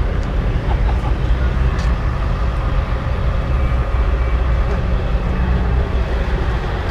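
Caterpillar V8 diesel engine of a three-wheeled trike running with a steady deep rumble.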